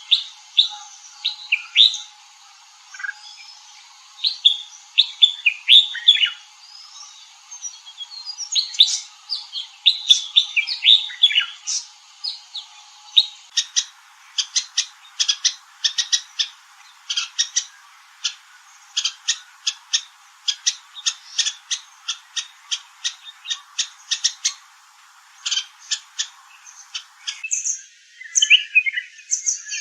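Red-whiskered bulbul calling. It starts with bursts of quick, falling whistled notes, then gives a long run of short, sharp chips at two or three a second, and jumbled chirps near the end.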